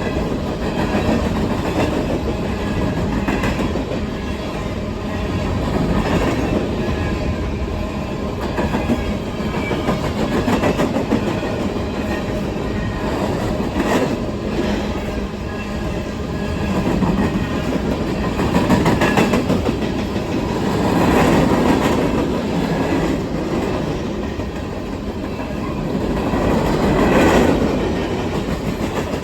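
Freight cars of a coal train rolling past close by: steady steel-wheel rumble and clickety-clack over the rail joints, swelling and easing every few seconds with occasional sharp clicks.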